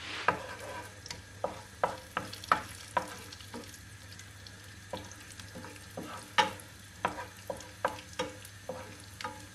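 Garlic cloves and chilli flakes frying gently in olive oil, with a quiet sizzle and scattered pops. A wooden spoon stirs and scrapes them around the pan, adding irregular clicks and taps.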